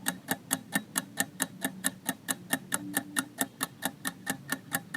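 Quiz countdown timer sound effect: a clock ticking quickly and evenly, about four to five ticks a second, over a faint low hum.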